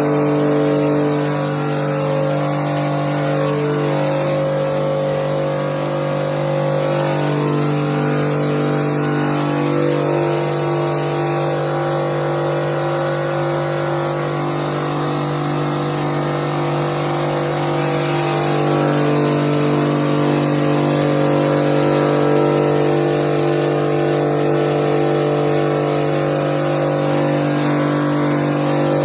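A motor running steadily: a constant low hum with higher overtones that shift in pitch every few seconds.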